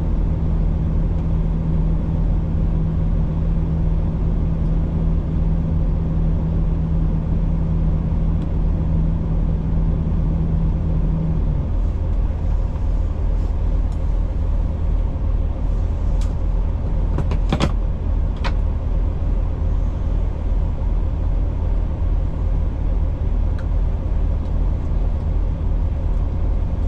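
Road-train prime mover's diesel engine running with a steady low drone. A steady hum over it stops a little before halfway, and a few sharp clicks come about two-thirds of the way in.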